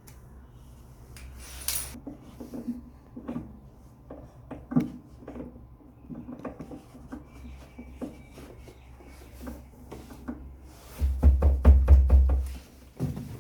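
Irregular clicks, taps and knocks of parts and tools being handled on a top-load washing machine under repair, with a loud low rumble for about a second and a half near the end.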